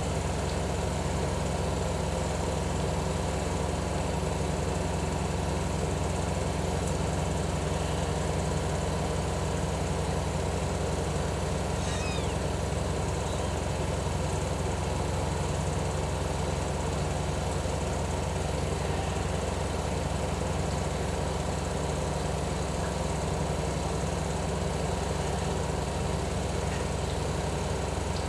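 Cat purring steadily close to the microphone, a continuous low rumble, as kittens suckle from their mother. A faint brief high chirp comes about twelve seconds in.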